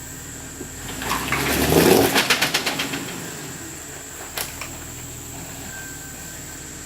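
Jeep Rubicon engine running low and steady, with a louder rattling, scraping burst of rapid ticks between about one and three seconds in, and a single sharp click a little later.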